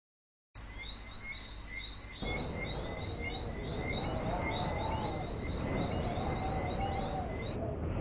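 Stock nature-sound recording of birds: a quick run of high repeated chirps, about four a second, over steady high tones, with a low rushing noise and lower warbling calls joining about two seconds in. It starts after a brief silence and switches to a different recording near the end.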